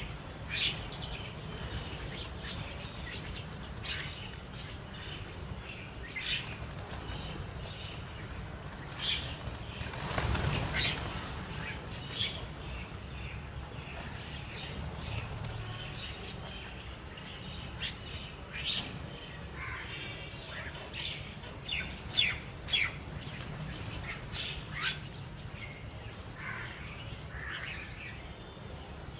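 A flock of jungle mynas giving scattered short, sharp chirps and squawks, several of them loud, with a brief whoosh about ten seconds in.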